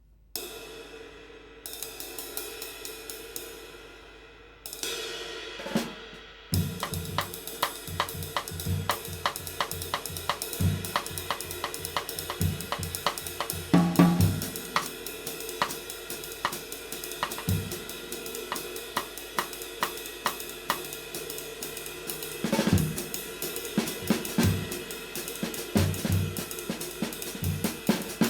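Handmade 20-inch light B20 bronze ride cymbal, struck alone a few times and left to wash for the first six seconds. Then it is played in a steady drum-kit groove with bass drum and snare under an even run of ride strokes.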